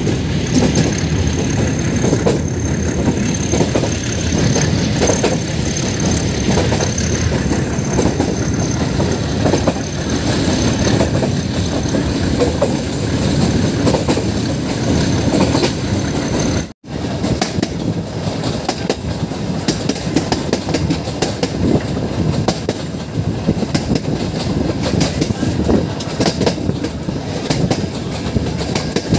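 Meter-gauge passenger train running, heard from the coach doorway: a steady rumble of wheels on rails with repeated clicks over the rail joints. A thin high whine runs through the first half, and the sound drops out for an instant about 17 seconds in before the rumble carries on.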